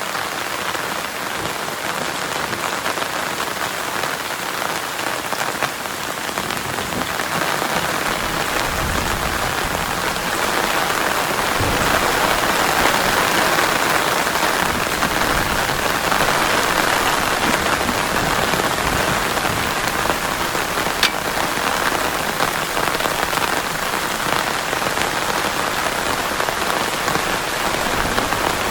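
Heavy rain falling steadily, with one sharp click about two-thirds of the way through.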